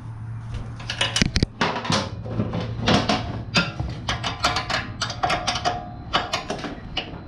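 Metal hand tools clicking and clinking in quick, irregular bursts as they are handled against the mini bike's metal parts, over a low steady hum.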